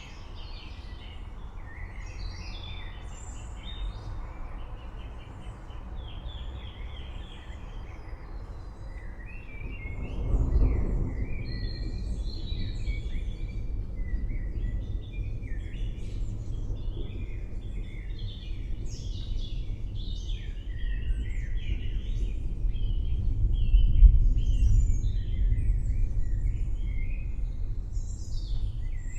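Several birds chirping and singing over the low rolling rumble of distant thunder, with the thunder swelling louder about ten seconds in and again near the end.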